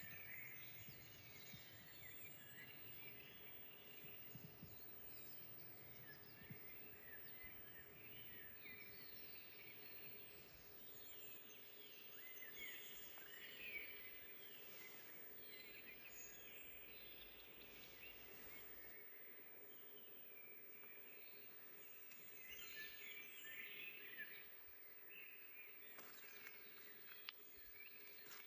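Several songbirds singing and chirping at once in a forest, faint, with short calls overlapping throughout, over a faint steady hum.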